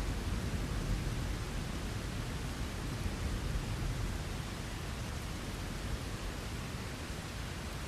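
Steady rain, an even hiss with a deep low rumble underneath, fading slightly over the stretch.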